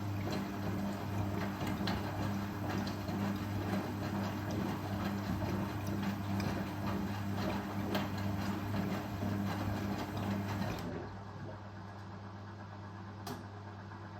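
Indesit Ecosense washing machine running, with a steady low motor hum under a rattling, clicking drum noise. The rattling drops away about eleven seconds in, leaving only the hum, and there is a single click near the end.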